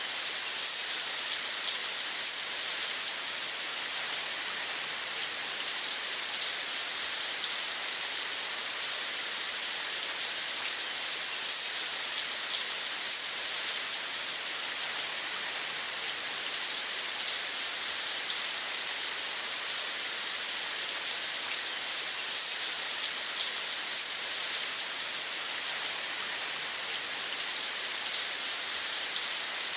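Steady rain falling in an even hiss.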